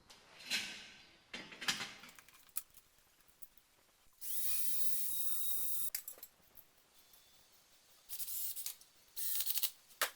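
Pressurised spray hissing in bursts: one steady burst of nearly two seconds about four seconds in, and two shorter bursts near the end. Before it, a few knocks and clatters from handled tools or parts.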